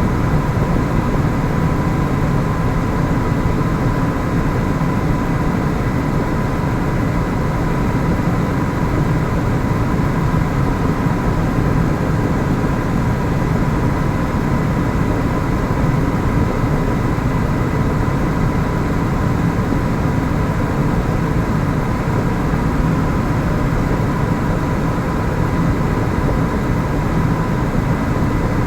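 Helicopter turbine and rotor noise from inside the cabin: a steady, loud drone with a constant high whine.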